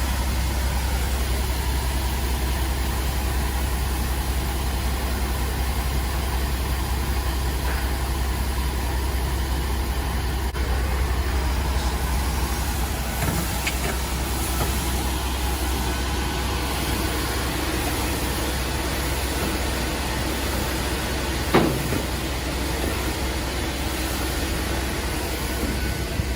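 Grain truck running steadily, a constant engine and road drone, with one short sharp knock about four-fifths of the way through.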